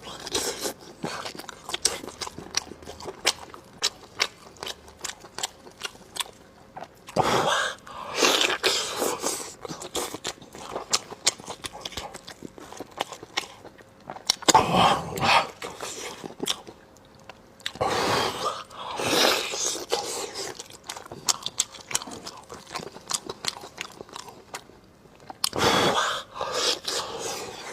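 Close-miked chewing of braised pork leg: a steady run of wet, sticky mouth clicks and smacks, broken four times by louder, longer bursts of biting or slurping.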